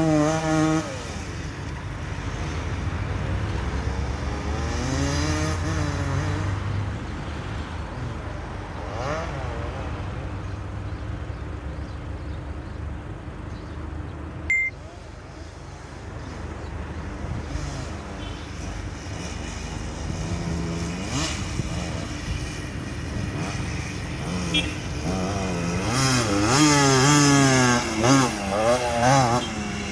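Motocross dirt bike engines revving up and down through the gears as the bikes ride the track, the pitch repeatedly rising and falling; loudest at the start and again near the end as a bike passes close.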